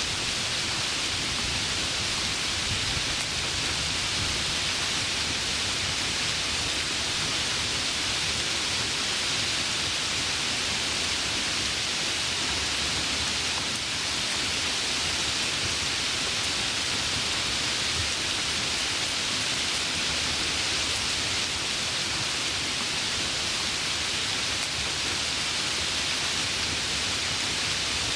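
Heavy rain falling steadily, an even hiss of downpour without distinct drops or thunder.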